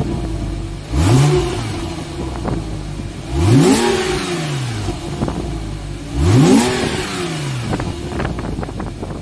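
2011 Porsche 911 Carrera S's 3.8-litre flat-six revved three times in short throttle blips, each rising quickly and falling back to idle.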